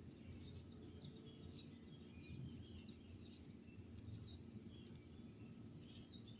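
Near silence outdoors: a faint steady low rumble with scattered faint bird chirps.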